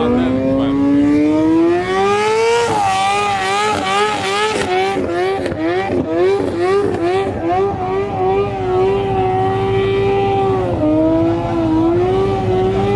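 A vehicle engine revved high and held there for many seconds. Its pitch climbs over the first few seconds, then wavers rapidly up and down, dips briefly near the end and climbs again.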